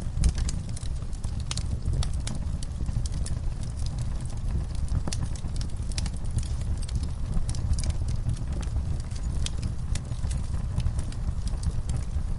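Wood fire burning in a fireplace: irregular sharp crackles and pops, several a second and unevenly spaced, over a steady low rumble of the flames.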